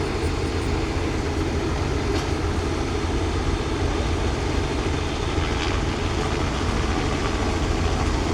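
Tractor diesel engine running with a steady low rumble.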